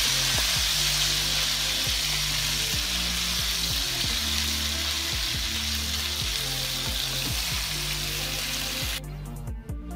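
Chicken pieces sizzling as they sauté in hot oil in a steel pot, stirred with a wooden spatula, a steady hiss. The sizzling cuts off about nine seconds in, leaving only background music, which plays low underneath throughout.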